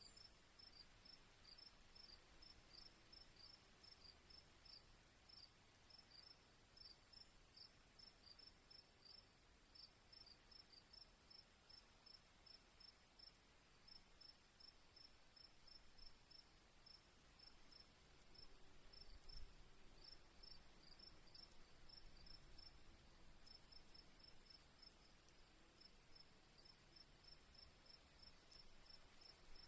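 Faint crickets chirping: a steady run of short, high chirps, several a second with brief gaps, over a continuous high-pitched insect trill.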